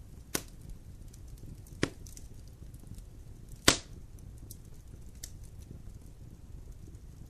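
Wood campfire crackling with faint ticks and three sharp pops: one about half a second in, one near two seconds, and the loudest near four seconds, over a low steady rumble.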